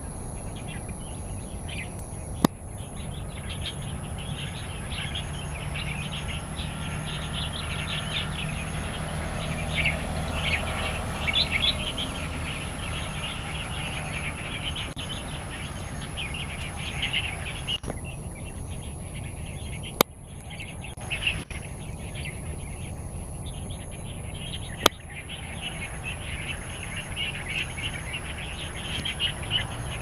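Wild birds chirping and calling continuously in a dense, quick chatter, with a thin steady high tone underneath and three sharp clicks, the first a few seconds in and two more in the second half.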